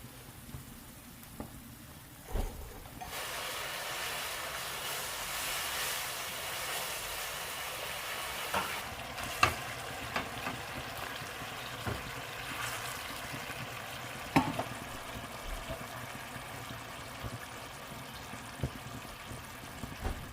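Food sizzling as it fries in a hot pan, starting suddenly about three seconds in after a soft knock, with a few sharp clicks of a utensil against the pan.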